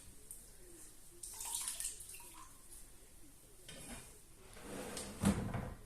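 Water splashing and sloshing in short, irregular spells, with a knock about five seconds in.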